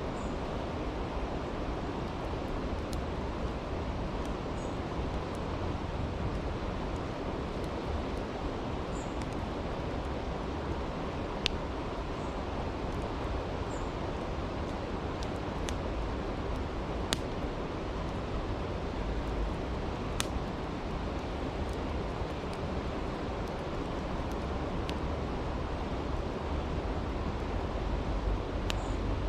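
A creek's water rushing steadily, with a campfire's crackles and sharp pops every few seconds, the clearest about a third and about halfway through.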